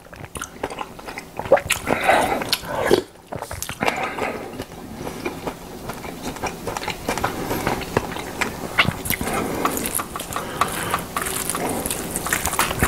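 Close-miked eating: a person chewing and smacking a mouthful, with irregular small clicks of chopsticks and a wooden spoon against ceramic dishes.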